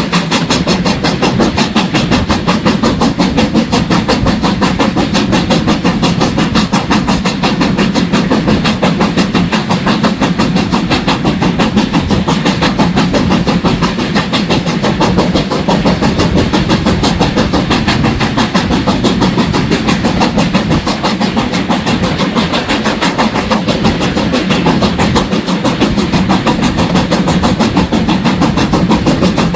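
Steam-hauled heritage train behind BR Standard Class 4 75014 running along the line, heard from on board: a steady, loud rumble and rattle of wheels on the track.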